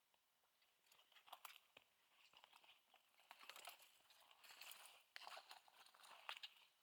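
Faint footsteps crunching on a gritty trail surface, irregular and uneven, growing denser from about a second in.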